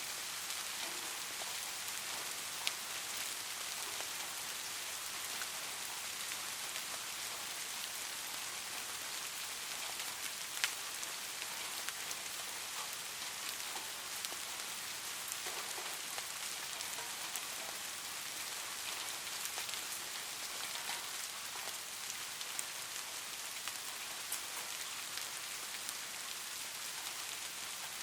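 Light rain pattering steadily, a soft even hiss with scattered drops, and a couple of sharper single drop ticks standing out.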